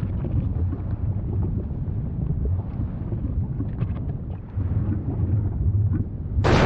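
Volcano rumbling deep and steady, with faint scattered crackles, then a sudden much louder rush of noise breaks in near the end, like an eruption blast.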